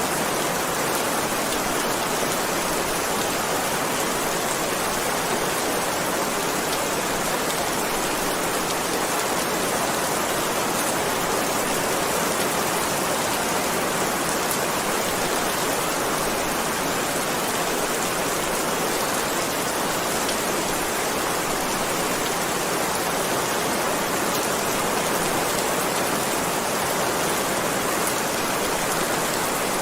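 Heavy rain falling steadily, a dense even hiss with no thunder or breaks.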